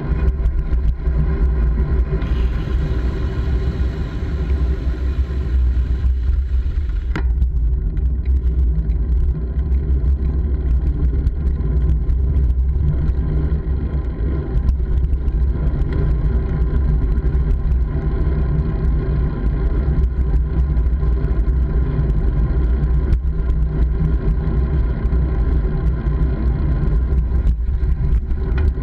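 Steady, loud, low rumble of a bike ride in motion. A brighter hiss joins about two seconds in and cuts off sharply about seven seconds in.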